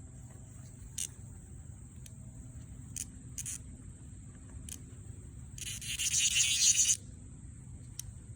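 A cicada gives one loud rasping buzz lasting about a second and a half, past the middle. A few short sharp clicks come before it, over a steady thin high insect whine.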